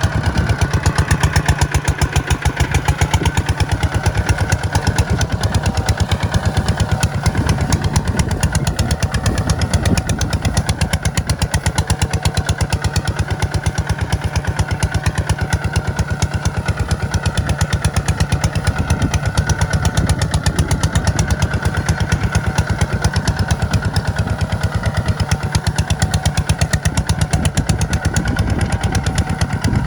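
Tractor engine running steadily, a rapid, even chugging pulse.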